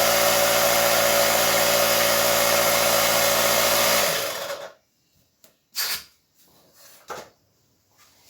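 Small air compressor, just repaired, running steadily while pumping up an inner tube, then switched off about four seconds in and winding down. A few short clicks and knocks follow.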